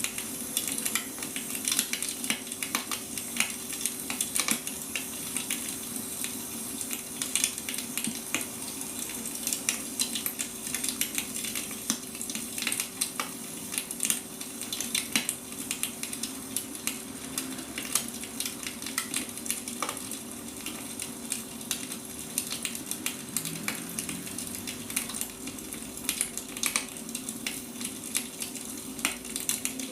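Firewood burning, with dense irregular crackles and pops over a steady hiss and a faint steady low hum underneath.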